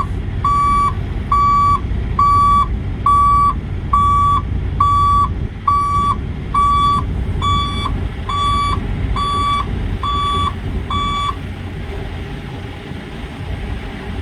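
Semi truck's backup alarm beeping steadily, about three beeps every two seconds, over the low rumble of a diesel engine, as the tractor reverses to line up under a dropped trailer. The beeping stops about 11 seconds in.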